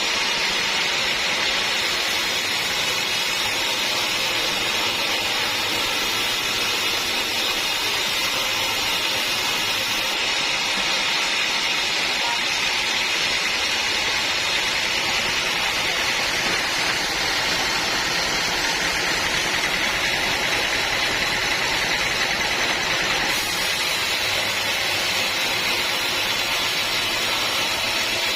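Band sawmill running, a steady unbroken machine noise.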